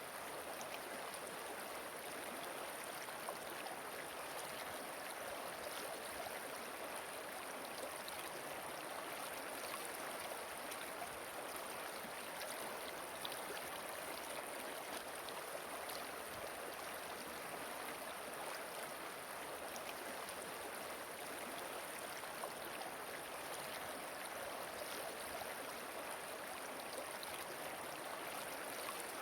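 Steady rush of flowing stream water, with faint small splashes and trickles scattered through it.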